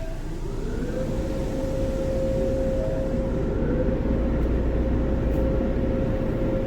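Belanger Airstream car wash dryer blowers spinning up: a whine rises over about the first second and then holds one steady pitch over a loud rush of air and low rumble, heard from inside the car.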